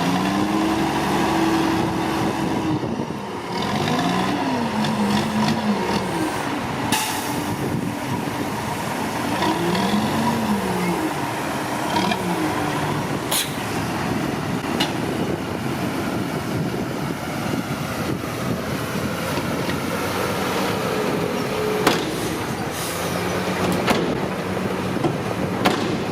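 Komatsu D41P bulldozer's diesel engine working, its revs rising and falling several times, with a few sharp knocks now and then.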